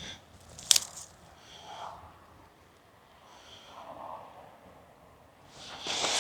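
A person breathing slowly through the nose close to the microphone, two breaths, after a single sharp click about a second in. A rush of noise builds near the end.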